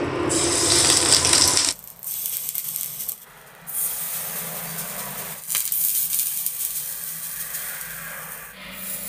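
Banana-flower patties sizzling in a little oil on a hot iron tawa. The hiss breaks off and returns abruptly several times.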